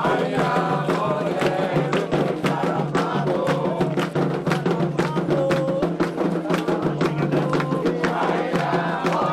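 Candomblé ritual music: percussion playing a fast, steady rhythm of strikes under group chanting.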